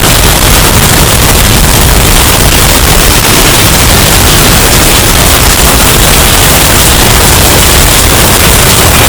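Hurricane wind sound effect, bass boosted and heavily overdriven into distortion: a loud, unbroken rush of noise with a heavy low rumble.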